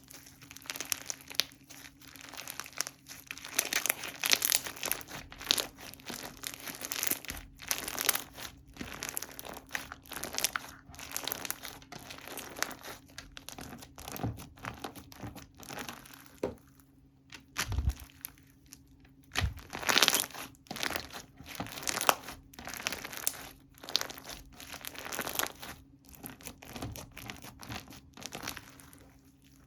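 Slime being squished, stretched and folded by hand, giving a dense run of irregular clicks and crackles as air pockets pop, with a brief lull about two-thirds of the way through.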